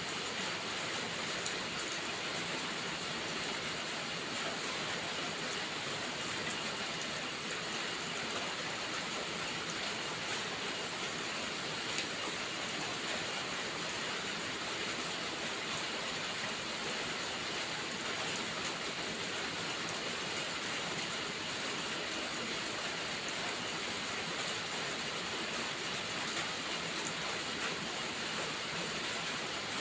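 Steady rainfall: an even hiss of rain with scattered faint drop ticks, unchanging throughout.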